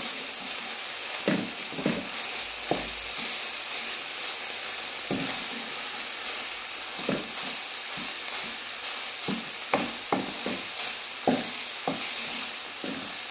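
Minced chicken sizzling as it fries in a little oil in a nonstick pan, stirred and scraped around with a wooden spatula in irregular strokes over a steady hiss.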